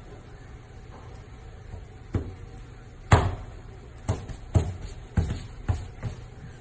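A series of about seven sharp thumps at uneven intervals, starting about two seconds in, the loudest about three seconds in.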